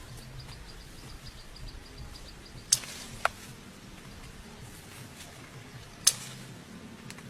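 Three short, sharp swishes or clicks, two close together near the middle and one about a second before the end, over a faint low hum, with a faint rapid ticking in the first couple of seconds.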